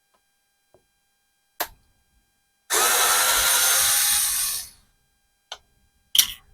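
Power drill fitted with an extension bit runs for about two seconds, backing out a screw from a scooter's air filter cover. A few short, sharp clicks come before and after the run.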